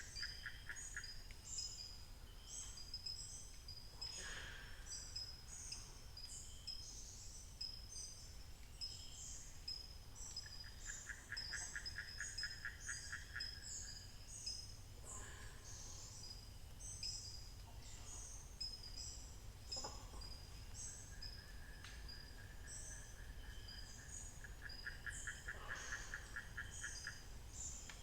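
Dawn chorus in African montane forest: many birds calling over a dense, continuous high chirping. A rapid pulsing trill comes in three bouts, at the start, around the middle and near the end.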